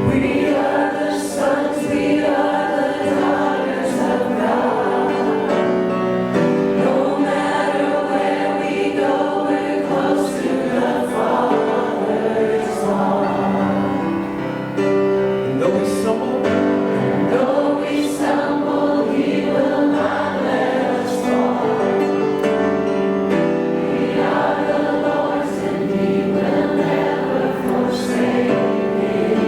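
A choir singing a church song, with sustained chords from the accompanying instruments.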